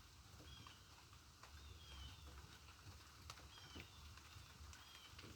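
Faint, short, high chirps from a small bird, each sliding down in pitch, about one a second. Scattered faint ticks and a low steady rumble sit underneath.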